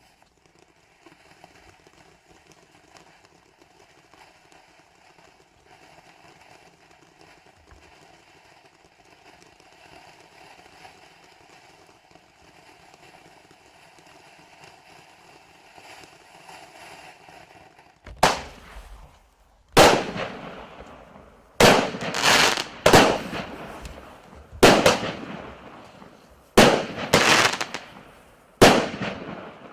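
Firework battery with a fountain (0.8-inch, 9 shots): the fountain hisses steadily for about eighteen seconds, then the shots go off, loud bangs every second or two, each trailing off.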